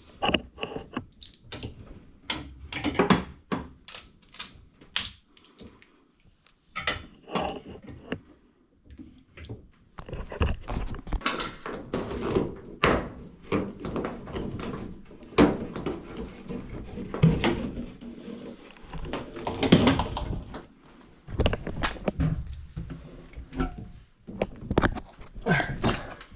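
Irregular knocks, thunks and scraping from a washing machine and its pedestal drawer being handled and shifted. The sounds are sparse at first and become a busy run of knocks and scrapes from about ten seconds in.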